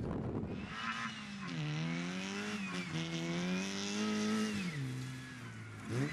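Volkswagen Polo rally car's engine driven hard, its note climbing and then dropping several times, with a noisy rush over the top.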